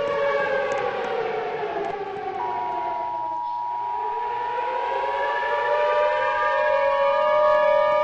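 Tornado warning siren falling in pitch to a low point about halfway through, then winding back up again, with steady held tones beneath.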